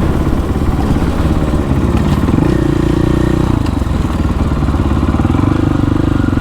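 Supermoto motorcycle engine running at low to moderate revs, its note mostly steady with small changes of throttle.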